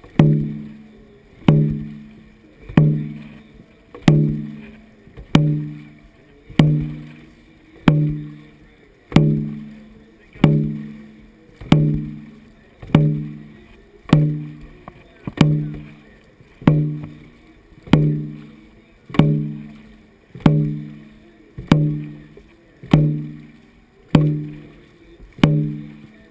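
A large dragon boat drum beaten in single, evenly spaced strokes, about one beat every 1.25 seconds, each deep boom fading before the next.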